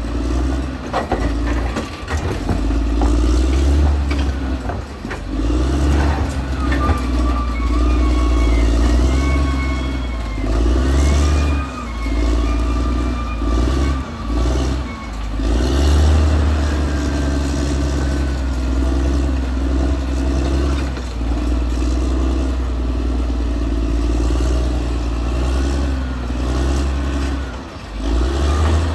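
Caterpillar D6R XL bulldozer's diesel engine working under changing load, its drone rising and dipping several times. High squeals wander up and down over it, with scattered clanks from the steel tracks and blade.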